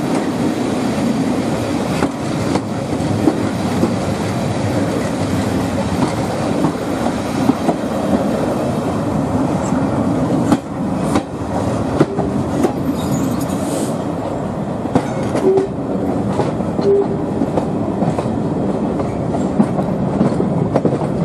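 Passenger coaches running along the track, heard from an open coach window: a steady rumble of wheels and rushing air with scattered clicks of the wheels over rail joints.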